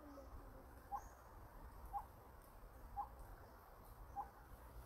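A bird repeating a short, sharp call note about once a second, faint against quiet outdoor background; a faint low note sounds just after the start.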